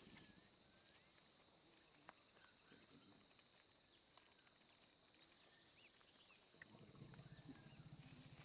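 Near silence: faint jungle ambience, with a steady high insect drone and a few faint bird chirps.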